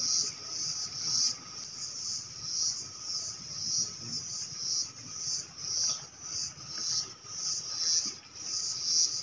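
A high-pitched insect chorus pulsing steadily, about three swells every two seconds.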